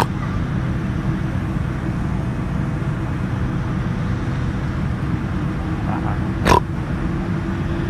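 Steady low cabin rumble of a taxiing Boeing 787-9 airliner, engine and air-conditioning noise. About six and a half seconds in comes one short, loud grunt, a vocal tic.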